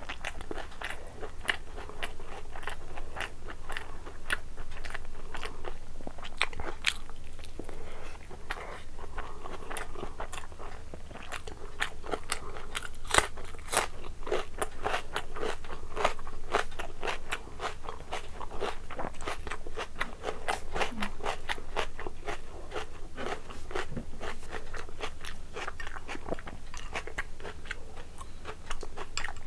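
A person chewing and biting food, with crunching and many quick, sharp wet mouth clicks that go on without a break.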